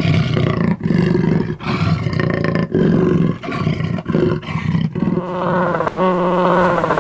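Loud animal calls: low, rough calls broken into short pieces for about five seconds, then clearer, wavering calls held longer near the end.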